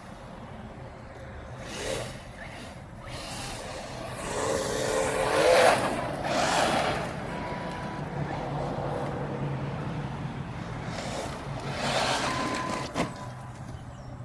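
Mojave 4S RC truck being driven: its motor and tyres swell louder as it passes close about five seconds in and again near the end, over a steady low hum, with a sharp click near the end.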